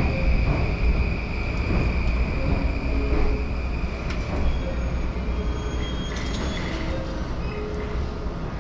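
Rail noise from a Yamanote Line train standing at a busy station platform: a steady low rumble, with a high whine that fades away about three seconds in.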